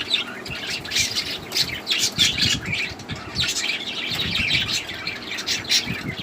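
Several budgerigars chattering, with many quick squawks and chirps overlapping without a break.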